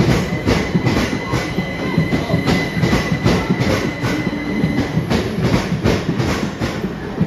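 A Class 387 electric multiple unit runs into the platform, its wheels clicking over rail joints in a steady rhythm over a running rumble. A thin high whine sounds with it and stops about five seconds in.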